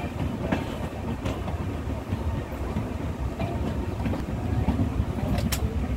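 Running noise of an Indian Railways express train heard from on board: a steady low rumble of the moving coach, with a few sharp clicks, the sharpest near the end.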